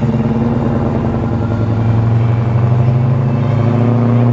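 Holden Commodore Calais performance engine pulling away gently at low revs, a deep steady note that rises a little in pitch in the second half. Even at this mild take-off it sounds like a fast car.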